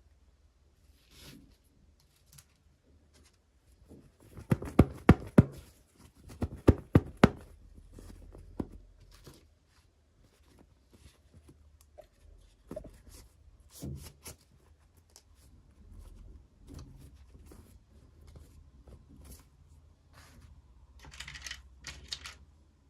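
Toy packaging being handled and opened by hand: a quick run of sharp plastic clicks and taps a few seconds in, then scattered small knocks and rustles, and a short tearing rustle near the end.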